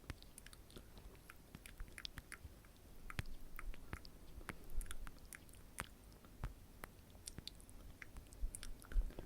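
Close-miked ASMR mouth sounds: irregular wet clicks and smacks, with a couple of louder ones near the middle and the end.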